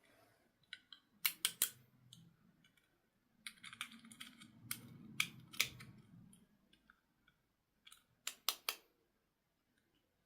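Hands handling small hard plastic objects: sharp clicks in clusters of two or three, with a longer run of clicks and rustling in the middle.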